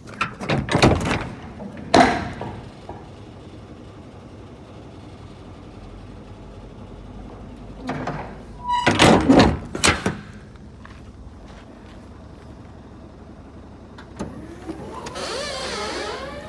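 Loud knocks and bangs on a truck, in two clusters near the start and about nine seconds in, over a steady low hum; near the end a rising, wavering whine begins.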